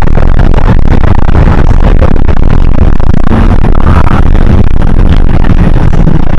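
Cabin noise inside a Hino HS8JRVL-UTF city bus on the move: diesel engine and road noise, heaviest in the low end, with rattles, recorded very loud.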